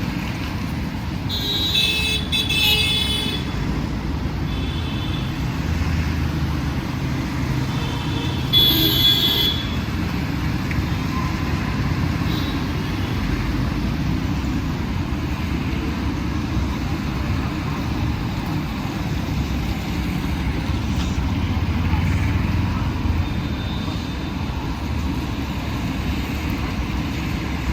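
Steady rumble of busy road traffic, with a vehicle horn honking for about a second and a half near the start and again briefly about nine seconds in.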